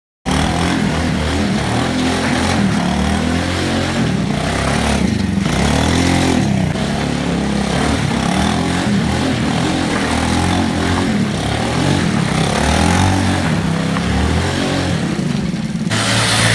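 IZh Planeta motorcycle's single-cylinder two-stroke engine running and being revved, its pitch rising and falling again and again. Just before the end the sound changes abruptly to a steadier, lower running note.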